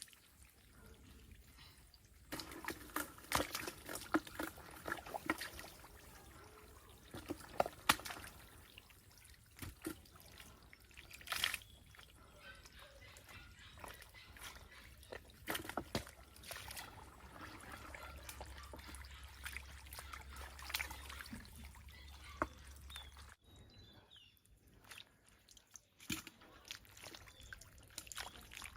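Water splashing and trickling, with many irregular splashes and knocks; the sound changes abruptly near the end.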